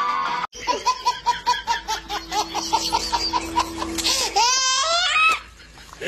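A person laughing hard in a rapid, high-pitched giggle, about four or five pulses a second, breaking into rising squeals near the end. Guitar music plays briefly at the start and stops abruptly.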